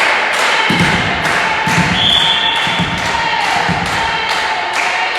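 A steady series of sharp thuds, about two a second, over a steady high tone.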